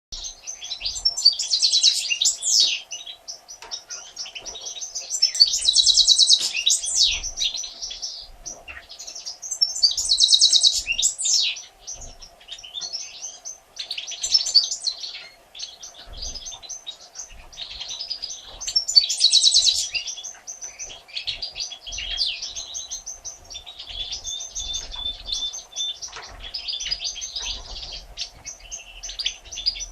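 European goldfinches twittering and chirping: high, rapid trills in loud bouts every four to five seconds, with quieter chirps between. A faint steady hum runs underneath.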